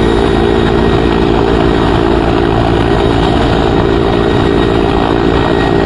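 A loud, steady engine drone with a constant hum and a rushing hiss over it, holding unchanged throughout.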